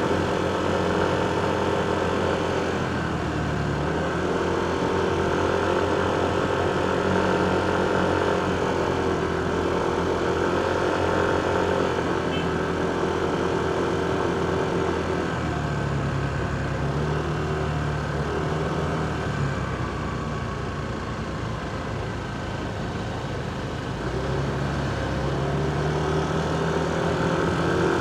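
Motorcycle engine running at low speed in heavy traffic, its note shifting up and down a few times, with the hum of surrounding vehicles.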